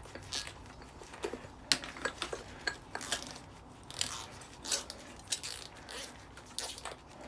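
Scattered light clicks, taps and small clatters of metal parts being handled while a stainless steel and aluminium decking light is dismantled by hand.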